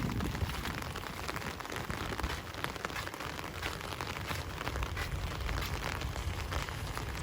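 Steady rain pattering on surfaces, with many small drop impacts ticking through a continuous hiss and a low rumble underneath.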